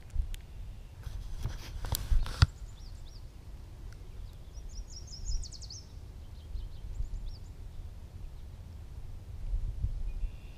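Small birds chirping, with short high calls and a quick trill about five seconds in, over a steady low rumble of wind on the microphone. A few sharp clicks of handling come in the first couple of seconds.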